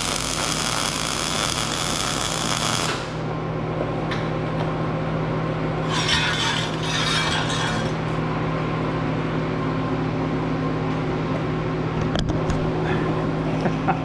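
A high-speed power tool in a metal shop whines and stops about three seconds in, over a steady low hum. About six seconds in there are two seconds of harsh, noisy work on metal, then a few sharp clinks near the end.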